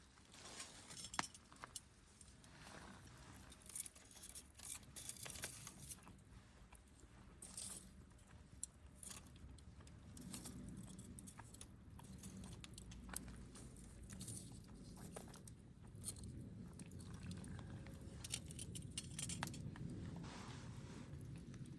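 Wood campfire crackling, with irregular sharp pops and snaps; a low rumble joins from about halfway through.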